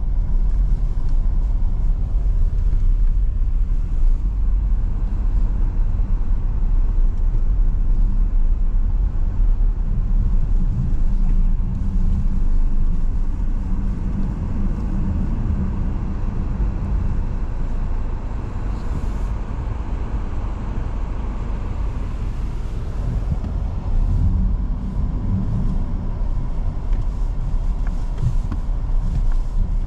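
Steady low rumble of a car driving, with engine and tyre noise; another vehicle's noise swells briefly past the middle.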